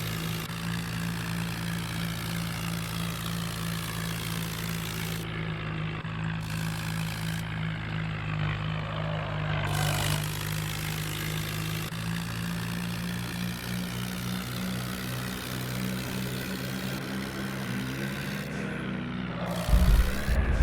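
Swaraj 744 tractor's diesel engine running at a steady speed. Near the end it gives a louder, lower surge.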